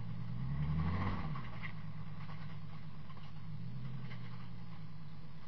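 Holden VL Commodore's engine heard from inside the cabin. It rises briefly in a rev about a second in, then settles to a steady low run.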